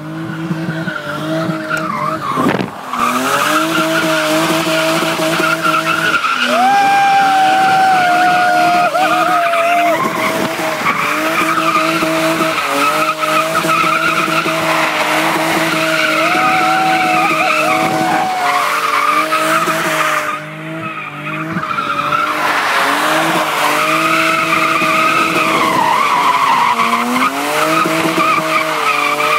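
BMW E36 325i's straight-six engine heard from inside the car while driving, holding fairly steady revs with a few brief dips in pitch. The level drops briefly about two-thirds of the way through.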